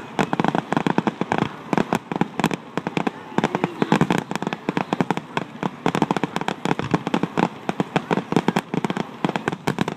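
Fireworks display: a dense, unbroken run of bangs and pops from aerial shells bursting, many per second.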